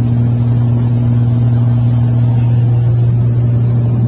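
Small plane's engine and propeller droning steadily at one even pitch, heard from inside the cabin.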